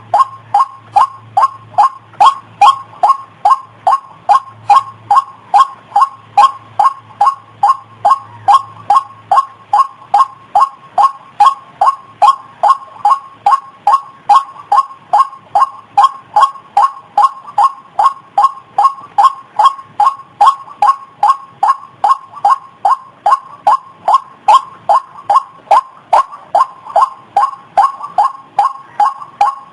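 White-breasted waterhen calling: a long, unbroken series of short, harsh notes, each dropping slightly in pitch, repeated about two and a half times a second.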